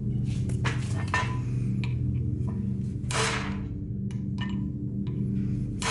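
Scattered light metallic clinks and taps, with a short swishing scrape about three seconds in, over a steady low background of held tones.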